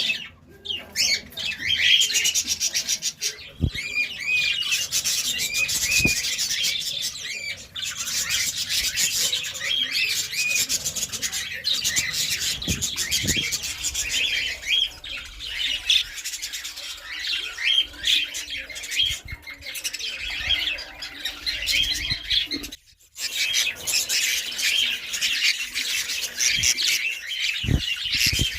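A flock of budgerigars chattering, with many quick warbling chirps overlapping without a break, apart from a brief pause about three-quarters of the way through.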